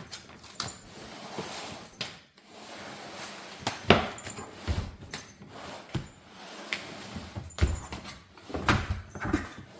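Household objects being handled: a string of irregular knocks, clinks and light rustles, the loudest knocks about four seconds in and again near the end.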